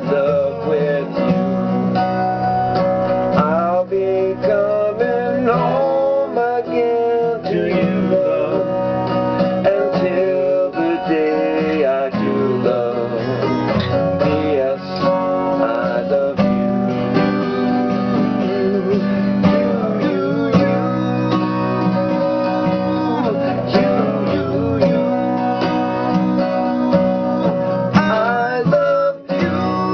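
Acoustic guitar strummed in an instrumental passage of a song.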